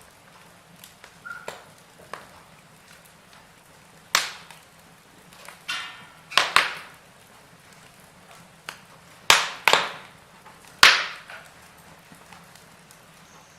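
Logs burning in a fireplace, crackling, with several sharp, irregular pops a second or more apart over a faint steady hiss; the loudest pop comes about two-thirds of the way through.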